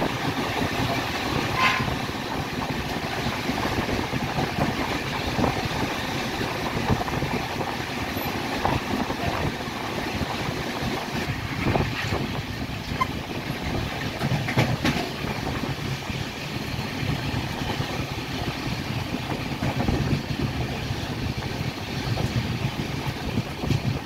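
Passenger train running along the track, heard from an open coach door: a steady rumble of wheels on rails with a few sharp clacks.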